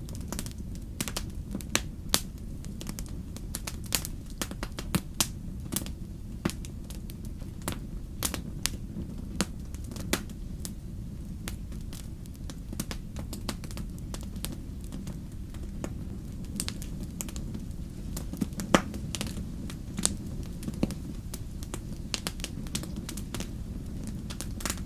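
Wood campfire burning: irregular sharp pops and crackles over a low, steady rumble of the flames, with one louder pop about nineteen seconds in.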